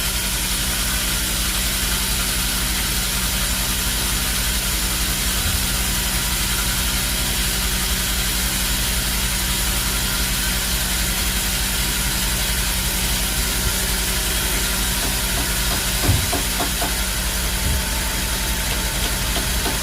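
Sawmill machinery running steadily: a constant low hum under an even hiss, with a single knock about sixteen seconds in.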